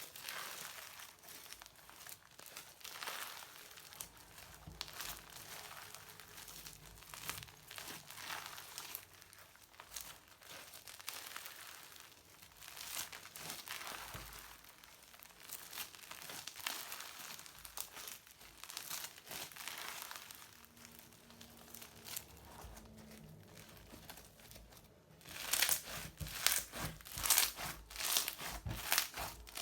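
Hands squeezing and kneading crunchy slime with modelling foam mixed in, a crinkling crackle with each squeeze about every one to two seconds. Near the end the squeezes come faster and louder.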